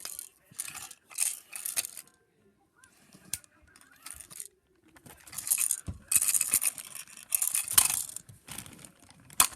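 Toys being handled and rummaged through, in bursts of rustling and clattering with sharp clicks, busiest from the middle onwards.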